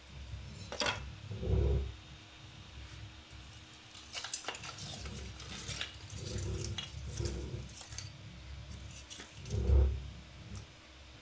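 Wooden kindling sticks clicking and knocking as they are laid into an open fireplace grate between wood briquettes, with two heavier low thumps, one about a second and a half in and one near the end.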